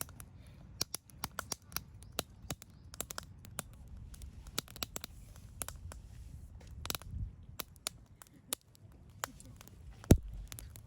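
Wood campfire crackling: a steady run of irregular sharp pops and snaps, with one much louder pop about ten seconds in.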